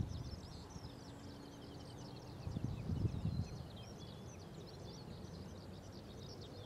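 Small birds chirping continuously in quick, high twitters. A low, uneven rumble swells and fades about three seconds in.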